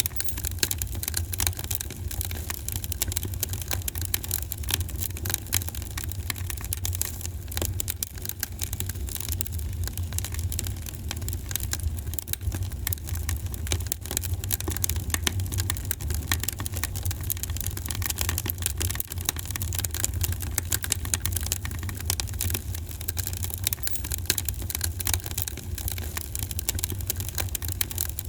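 Fireplace fire crackling: many small pops over a steady low rumble.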